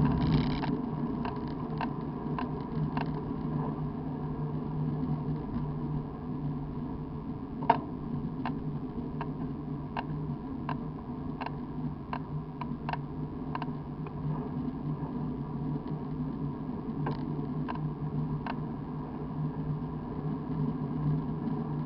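Steady rolling rumble of a road bike ride on a wet road, with scattered sharp clicks and ticks, one louder knock about eight seconds in.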